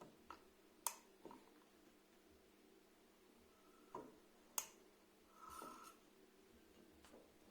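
Water drops falling from a dripping tap, each landing as a short, sharp plink at irregular intervals, two of them louder, about a second in and just past the middle, with fainter drips between and one short ringing drip a little later.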